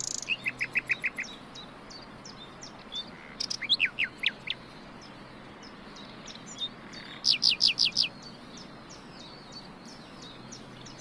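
Small birds chirping in short runs of quick, sharp notes: one just after the start, another about four seconds in, and the loudest, a rapid series of about seven chirps, around seven seconds in, over a faint steady hiss.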